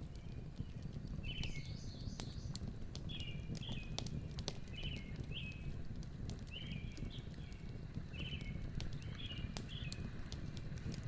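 A bird calling over and over, short calls about once a second, over steady wind noise, with scattered faint clicks.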